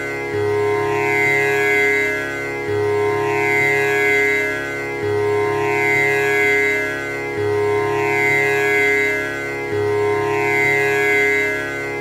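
Tanpura drone: its strings are plucked in a slow repeating cycle about every two and a half seconds, a low string opening each round, with shimmering overtones ringing over a steady hum.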